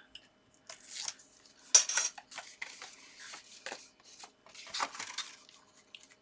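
Papery crackling, rustling and light clicks as the backing is peeled off red liner double-sided tape and the card is handled, in irregular bursts, the loudest about two seconds in.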